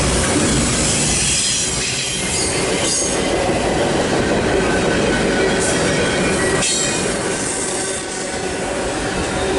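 Double-stack container well cars of a Union Pacific intermodal train rolling past: a steady loud rumble and rattle of steel wheels on rail with faint wheel squeal, and a couple of sharp clanks partway through.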